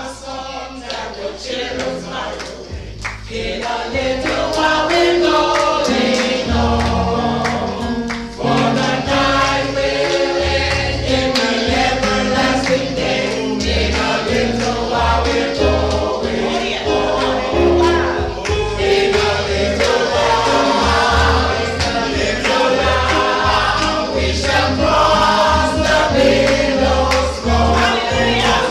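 Gospel choir singing with a band behind it: bass notes and a steady beat under the voices. The music starts thinner and grows fuller and louder about four seconds in.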